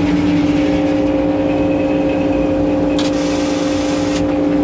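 An engine running at a steady speed with a constant hum. About three seconds in, a burst of hissing noise starts abruptly and cuts off a little over a second later.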